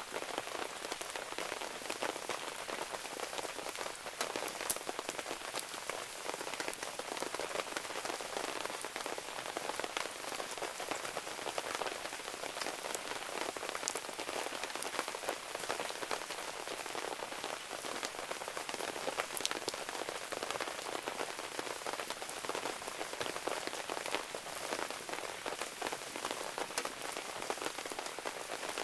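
Steady rain falling, an even hiss dotted with many sharp ticks of drops, with one louder click about five seconds in.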